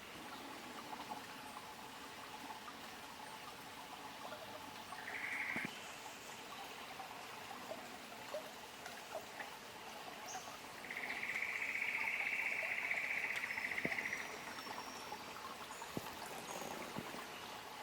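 Small rainforest creek trickling steadily over stones. A short high buzzing trill sounds about five seconds in, and a longer, louder one from about eleven to fourteen seconds in.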